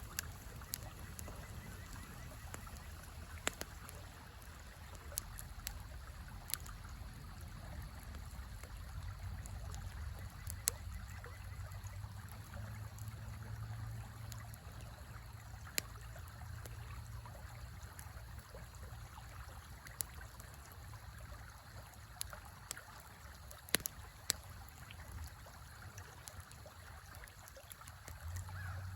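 Campfire crackling with sharp pops every second or two, a louder pair near the end, over the steady rush of a river.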